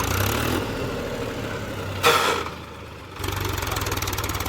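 Tractor engine running with a steady low chug. About two seconds in there is a short loud burst of noise, the engine sound then drops for under a second, and it comes back with a strong even beat about three seconds in.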